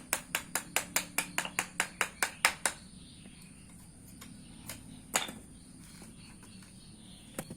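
Rapid, even tapping, about seven sharp taps a second, that stops about three seconds in, followed later by two single knocks; a faint steady high whine runs underneath.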